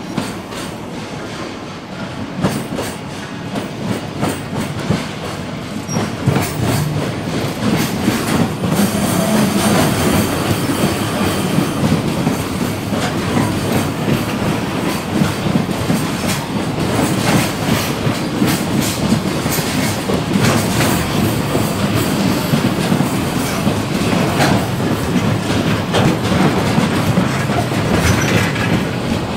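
Freight train of container wagons rolling past on the yard tracks. The wheels clatter in repeated clicks over the rail joints and points, and the noise grows louder about eight seconds in.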